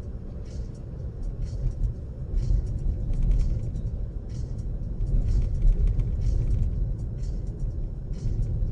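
Road vehicle driving: a steady low road-and-engine rumble with faint, irregular clicks and rattles over it.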